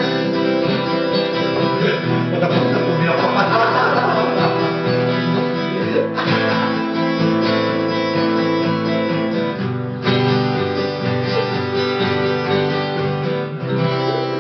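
Acoustic guitar strumming chords, with a new chord struck about every four seconds.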